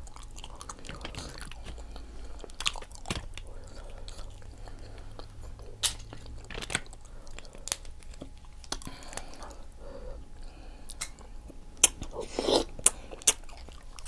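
Close-miked chewing of tender seafood: wet mouth smacks and scattered sharp clicks, with a louder cluster of bites near the end.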